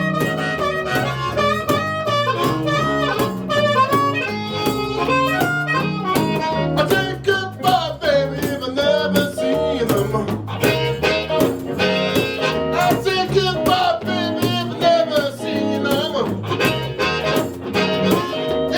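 A live blues band playing, with blues harmonica over guitar.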